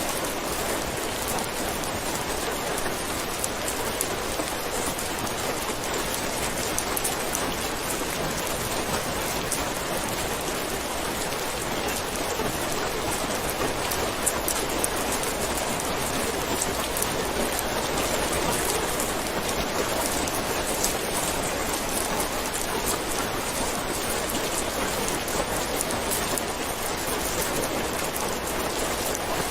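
Steady heavy rain: a dense, even hiss of raindrops falling on a surface, with no thunder.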